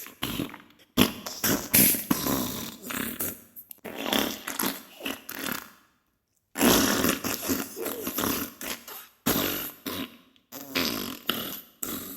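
Diarrhea sound effect: a run of fart noises in bursts of one to three seconds each, with short breaks and one complete stop of about half a second near the middle.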